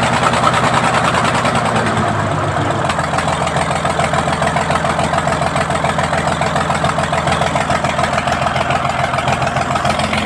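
Deutz diesel engine running, its speed falling about two to three seconds in and then settling into a steady idle with an even, rapid pulsing.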